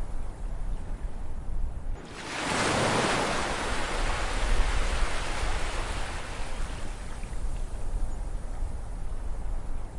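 Ocean waves: about two seconds in, a wave breaks and washes in as a broad hiss that slowly fades away, over a steady low rumble of surf.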